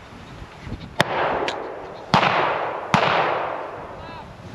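Shotgun shots at a pheasant tower shoot: three loud shots about a second apart, starting about a second in, with a fainter shot between the first two. Each shot trails off in a long echo.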